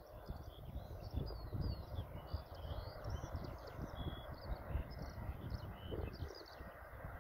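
Small birds chirping and whistling in many short, quick notes, over gusty wind rumbling on the microphone.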